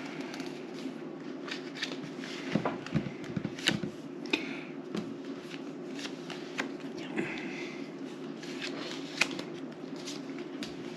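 Playing cards being handled and shuffled: irregular sharp snaps and short riffling rustles of cards, over a steady low hum in the background.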